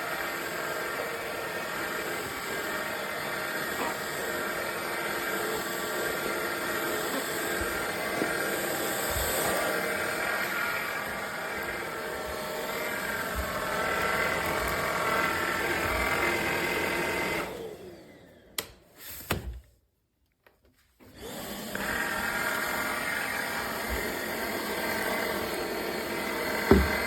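Cordless stick vacuum cleaner running steadily with a motor hum and whine, with occasional low knocks. About two-thirds of the way through it winds down and goes quiet except for a click or two, then starts up again a few seconds later.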